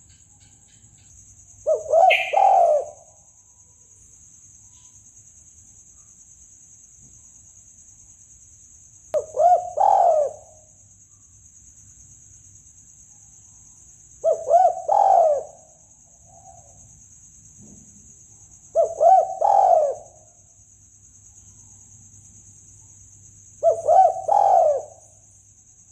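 Spotted dove cooing: five separate phrases of a few quick notes, about every five seconds, with a steady high hiss throughout.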